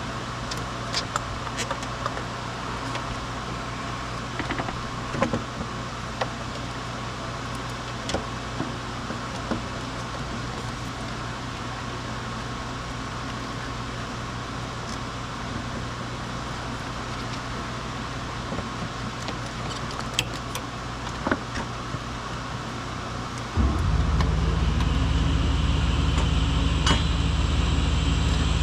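A steady low hum with scattered light clicks; about 24 seconds in, a much louder steady motor sound starts abruptly and keeps running.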